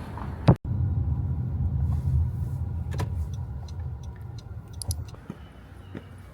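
Steady low rumble of a car on the move, fading after about four seconds, with a sharp click about half a second in and a few light clicks later.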